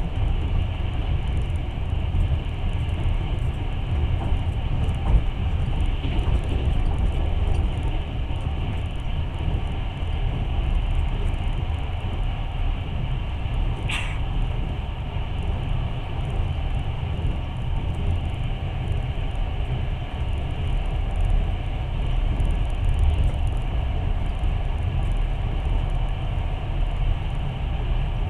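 Passenger train carriage running along the track, heard from inside the car: a steady low rumble of wheels on rails, with one brief sharp click about halfway through.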